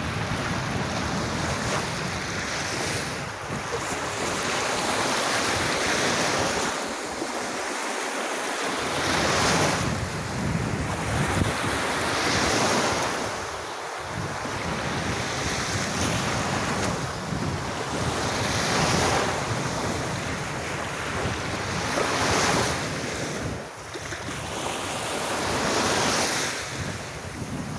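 Gentle waves breaking and washing up a sandy beach, swelling every few seconds. Wind rumbles on the microphone underneath and drops away briefly a third of the way in.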